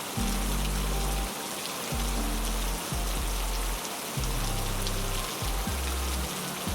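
Heavy rain falling in a steady hiss of drops, with low, deep tones underneath that come and go every second or two.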